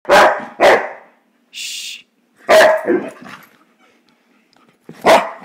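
Boxer dog barking: two quick barks at the start, another about two and a half seconds in, and one more near the end, with a short hiss between the first pair and the next bark.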